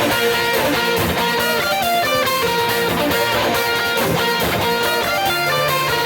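Electric guitar in standard tuning playing a rock song's part over a full band with bass and drums keeping a steady beat.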